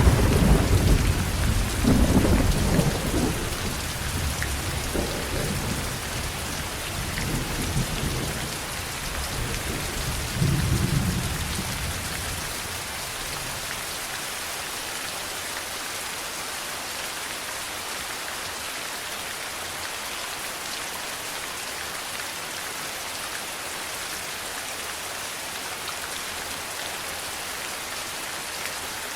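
Steady rain with a long rolling peal of thunder. The thunder is loudest at the start, swells several more times, and dies away about twelve seconds in, leaving only the rain.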